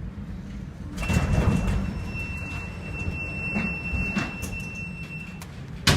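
Steady low rumble aboard a ship in heavy seas, with a loud rushing crash about a second in, a thin steady high tone for about four seconds, and a sharp bang near the end.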